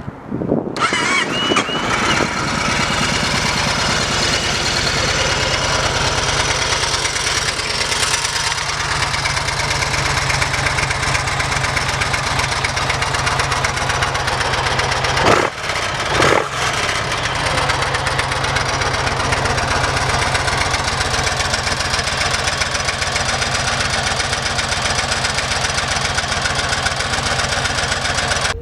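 A big V-twin motorcycle engine, the Yamaha Stratoliner's 1,854 cc air-cooled V-twin, is cranked over by its starter and catches about a second in. It then settles into a steady idle with an even, loping low beat, broken twice by short dips about halfway through.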